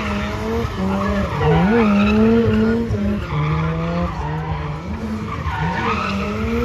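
Drift car engine revving up and down several times with tyres skidding as the car slides.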